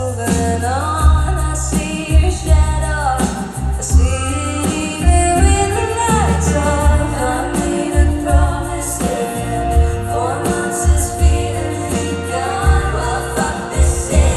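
A woman singing a pop song live with her band, her voice gliding between held notes over a loud, pulsing bass line.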